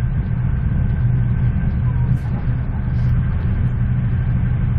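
Steady low rumble of a passenger train coach running at speed, heard inside the carriage, with a thin steady whine above it.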